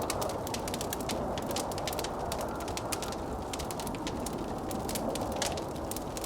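Wood fire in a fireplace crackling, with frequent irregular sharp snaps and pops over a steady, even rush of blizzard wind.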